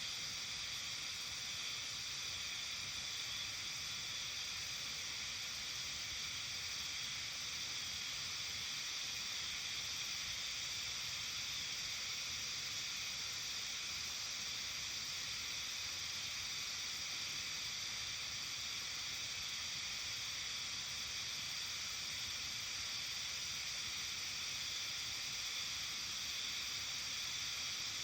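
Steady evening outdoor ambience of a Japanese mountain village: an even, high hiss that does not change.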